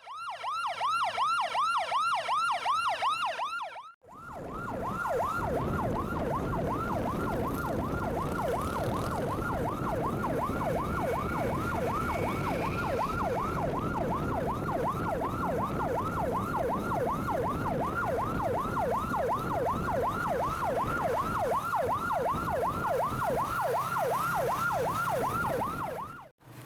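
Electronic siren in a fast yelp, its pitch falling in quick sweeps about three times a second. It breaks off briefly about four seconds in, then runs on over a steady rush of background noise.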